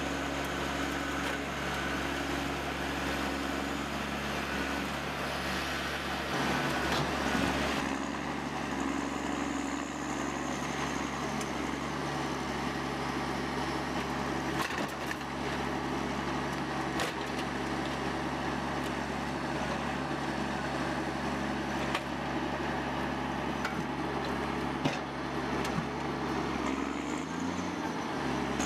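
A large engine of heavy machinery running steadily at a constant speed, with a few sharp knocks and clatter over it, and a louder rough patch about six to eight seconds in.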